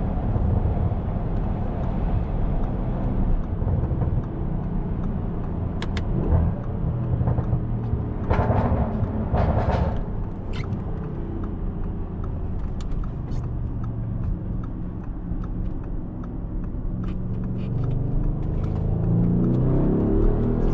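Audi S7's twin-turbo engine running under steady cruise with road noise, with two short whooshes about eight and nine and a half seconds in. Near the end the engine note rises as the car accelerates.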